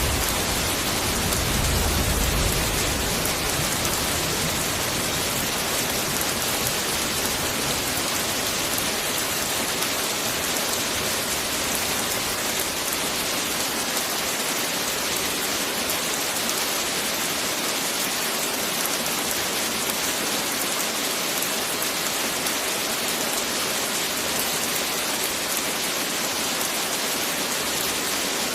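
Heavy rain falling steadily, a dense even hiss of drops on surfaces. A low rumble of thunder dies away in the first few seconds.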